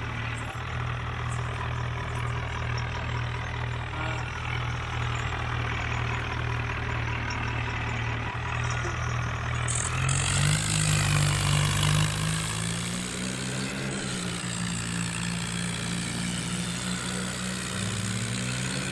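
Tractor engine running steadily at a low idle. About halfway through, its pitch steps up and it runs faster and a little louder for the rest.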